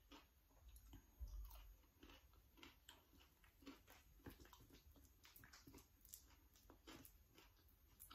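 Faint chewing of sticky rice dipped in pla ra bong, heard as many small, irregular mouth clicks.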